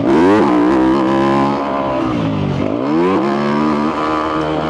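2022 Yamaha YZ250F's single-cylinder four-stroke engine through a full FMF exhaust, ridden on a trail. The revs drop and climb back up twice, once at the start and again about two and a half seconds in, with steady pulling between.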